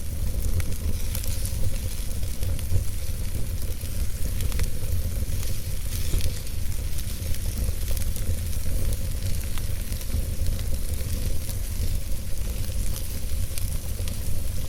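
Wood fire burning in a fireplace: a steady low rumble of the flames with a hiss and scattered sharp crackles and pops from the burning logs.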